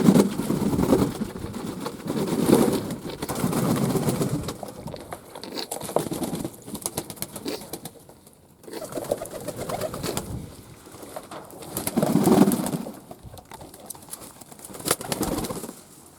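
Fantail doves cooing, low swelling coos repeating every second or two, with scattered light clicks and scratches among them.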